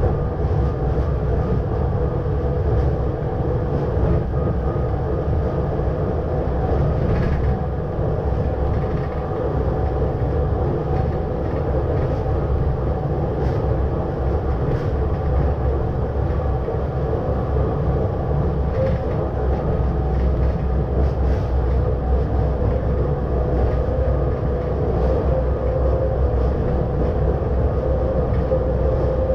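Electric rack-railway train running steadily, heard from the driver's cab. There is a constant rumble with a steady whine, and a few faint clicks from the track.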